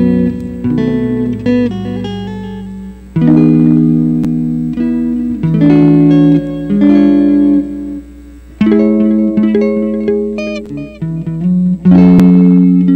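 Solo guitar playing chords and melody: full chords struck and left to ring out, several seconds apart, with lighter single notes between them.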